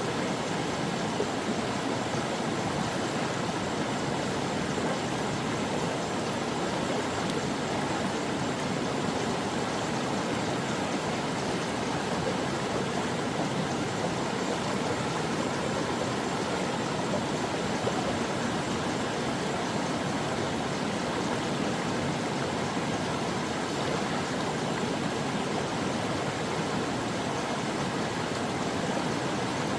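A brook flowing: a steady, continuous rush and babble of running water.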